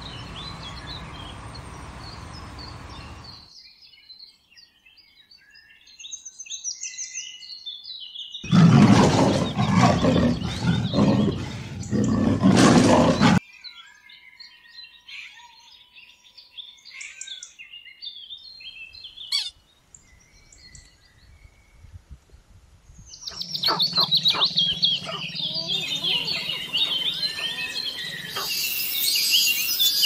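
A string of short natural-sound clips: scattered bird chirps, a loud dense burst of animal sound a third of the way in, and near the end a shrill, steady high buzz of a singing cicada.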